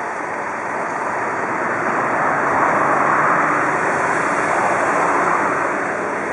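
A red Desiro regional multiple-unit train running past close by, its running noise swelling to a peak midway and easing off near the end.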